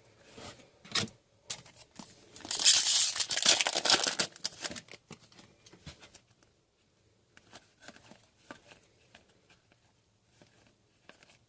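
A foil trading-card pack torn open, a crinkly tearing lasting about two seconds, with light rustles and clicks of cards being handled before and after.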